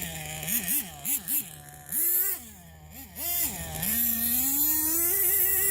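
Nitro engine of an RC10GT truck, fitted with a smaller carburetor and a stinger exhaust pipe, idling and being blipped: a run of quick short revs, two longer ones, then a slower rising rev that is held high near the end.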